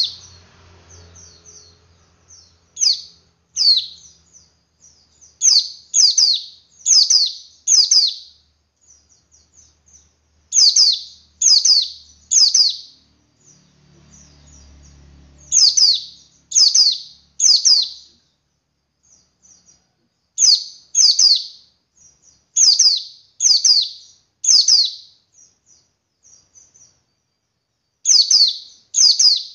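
Male white-eye (pleci) calling. Loud, sharp, downward-sweeping chirps come in quick groups of two or three, with softer twittering between the groups.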